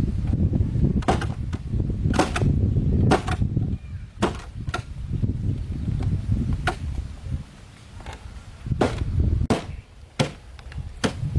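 Irregular sharp knocks and clacks, about a dozen spaced unevenly, over a steady low rumble.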